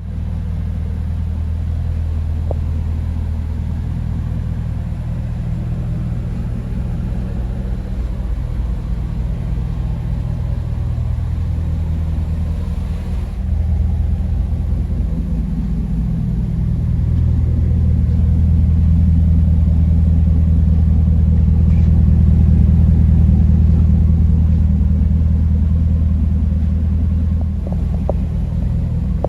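2005 Chevrolet Corvette's 6.0-litre LS2 V8 running through a Borla exhaust: a low, steady exhaust note that grows louder about halfway through and eases off near the end.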